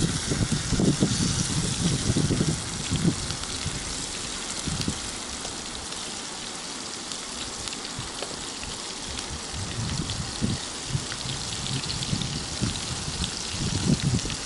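Flour-coated rotan fish frying in oil in a pan: a steady sizzle. Low rumbling comes over it for the first few seconds and again near the end.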